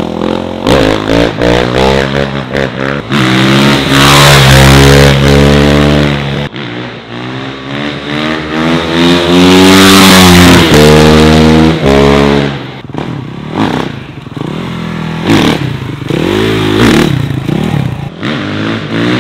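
Dirt bike engine running close by, revving and accelerating with its pitch climbing and falling several times. It is loudest as it winds up about ten seconds in, then drops to a quieter, uneven running after that.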